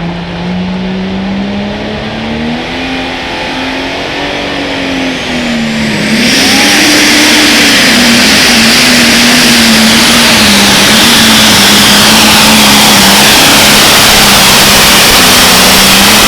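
Turbocharged competition pulling tractor's engine revving and wavering for several seconds. About six seconds in it goes to full throttle, a loud, steady run under load down the track with a high whine over the engine note.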